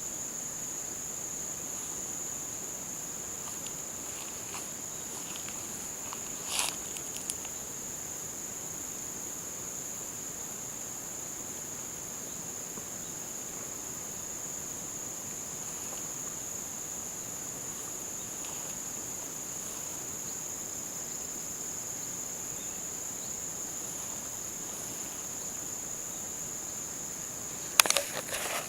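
Steady, high-pitched chorus of autumn insects, with a brief noise about six and a half seconds in and a few sharp clicks near the end.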